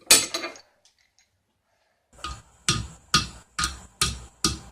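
Hand hammer striking hot square steel stock on an anvil: one blow, then after a pause a steady run of about two blows a second, each with a ringing tone.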